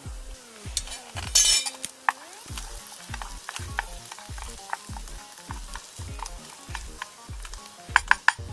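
Food sizzling in a pan over a campfire while it is stirred, with small metal clinks of the utensil against the pan, a short loud hiss about a second and a half in, and three sharp clinks near the end. A steady low thump about twice a second runs underneath.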